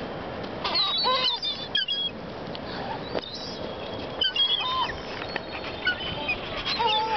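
Several seagulls calling in short pitched cries while being fed bread, in clusters about a second in, again around four seconds in, and near the end.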